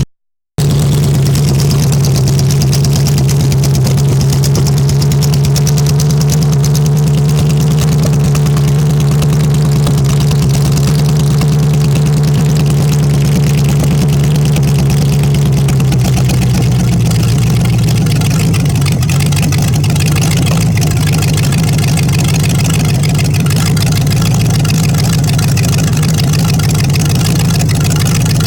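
1955 Pontiac 287 V8 running steadily on its first test run after a clean-out and tune-up, its speed dropping slightly a little past halfway.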